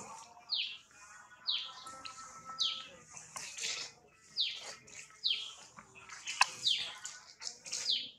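A bird calling with short, high chirps that slide downward, repeated about once a second.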